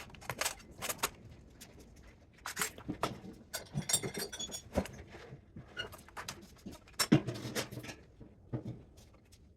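Irregular clinks and knocks of hand tools and metal parts being handled, with a brief metallic ringing about four seconds in.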